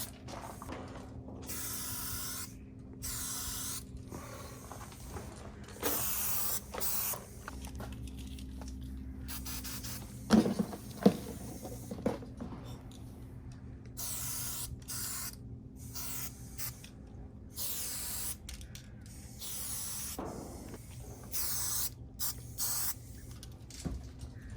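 Aerosol spray paint cans spraying in many short bursts, each under a second, with pauses between. A few sharp clicks come about ten seconds in.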